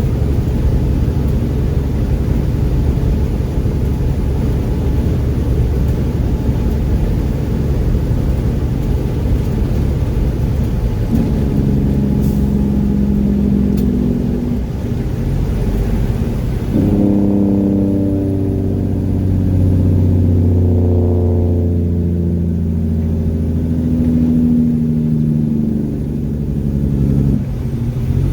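Mack truck's diesel engine running under way, a loud steady low drone. Its note shifts about two-fifths of the way in and again past halfway, then dips briefly near the end.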